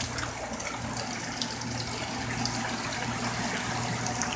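Heavy tropical-storm rain falling steadily, a dense hiss scattered with many small sharp drop impacts. A steady low hum runs beneath it.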